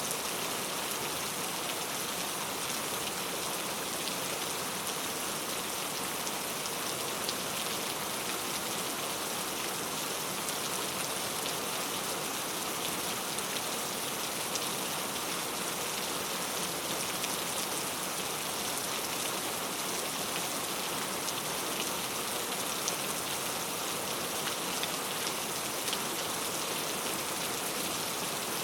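Heavy rain falling steadily on mango leaves, an even hiss of rain with scattered sharper drop ticks.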